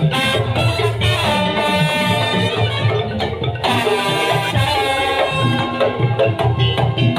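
Madurese daul (tong-tong) music: a percussion ensemble playing continuously, with ringing mallet-struck instruments over a busy, steady drum beat.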